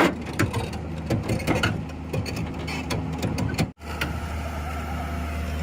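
Diesel engine of heavy earthmoving machinery running steadily, with irregular clicks and rattles over it. The sound cuts out abruptly about three and a half seconds in, then the engine runs on steadily.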